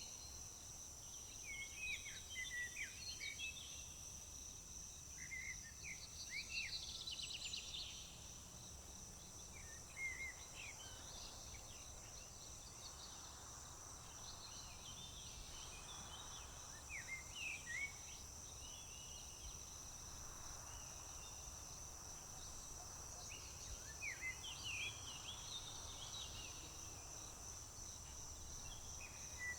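A steady, unbroken high-pitched chorus of crickets, with songbirds calling in short scattered chirps and quick trills throughout, over a faint low rumble.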